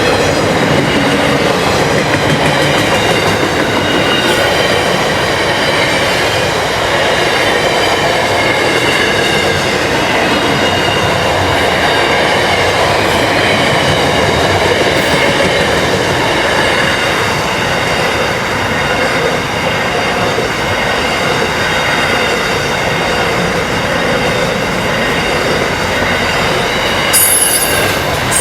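Freight train rolling past in a steady, continuous rush of wheels on rail, with faint high-pitched wheel squeal throughout. A brief, sharper squeal comes near the end.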